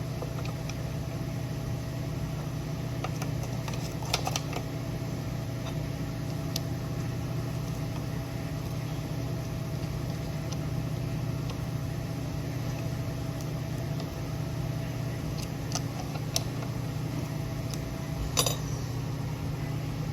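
Steady low mechanical hum of a shop fan or similar machine, with a few light metallic clicks and a short scrape as small engine parts are handled during reassembly.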